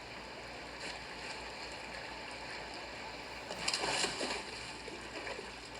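Steady whoosh of a VOPLLS 4K projector's cooling fan, heard from right behind the projector, under a nature documentary's river sounds playing through the projector's speaker. The water sounds swell briefly about three and a half seconds in.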